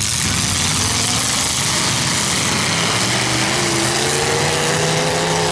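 Several demolition derby cars' engines running hard over a steady din. About halfway through, one engine's note rises as it revs.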